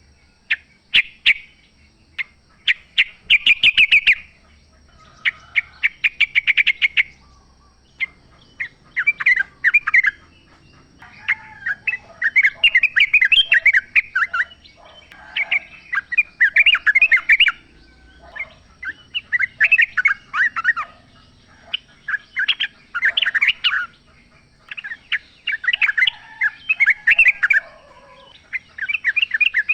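Yellow-vented bulbuls singing: short, bubbly chattering phrases, one after another every second or two, with some fainter lower notes in between.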